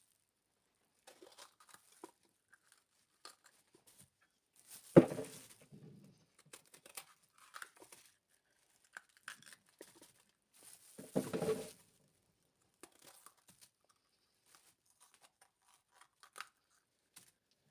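Kitchen handling sounds: scattered light clicks and rustles, a sharp knock about five seconds in, and a louder crinkling, tearing rustle about eleven seconds in.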